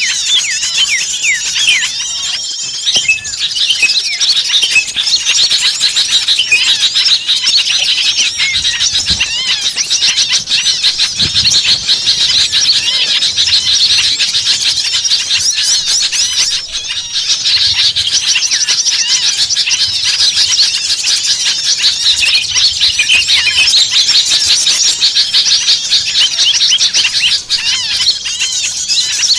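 A loud, dense chorus of many small birds calling at once: rapid, overlapping high chirps and twitters with no break. It is a bird-luring recording of agitated small birds in a commotion, meant to draw other small birds in.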